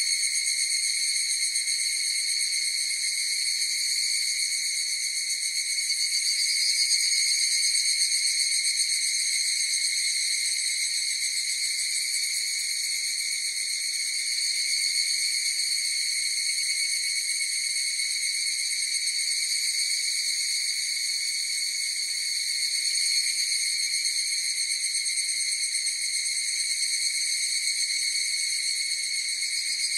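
Chorus of higurashi (evening cicadas) calling, a steady high ringing that goes on without a break.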